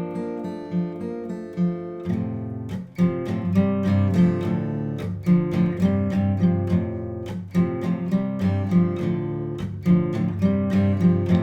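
Instrumental opening of a song on guitar: picked notes at first, then a fuller, strummed pattern with lower notes joining about two seconds in.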